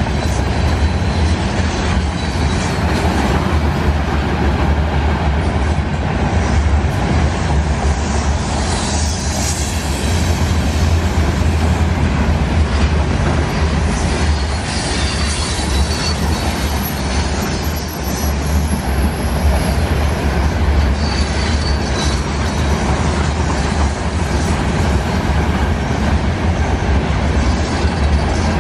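Covered hopper cars of a CN potash freight train rolling past at speed: a steady, loud low rumble of steel wheels on rail with clatter, and a few faint high-pitched wheel squeals in the second half.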